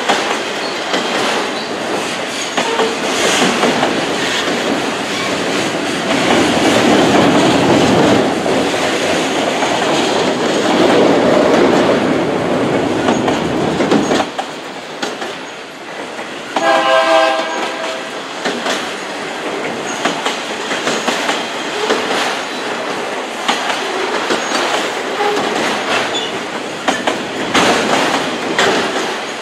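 Long freight train of autorack cars rolling past: a steady rumble and rattle of wheels and car bodies with clickety-clack over the rail joints, louder for about the first half. About 17 seconds in, a train horn sounds once, briefly.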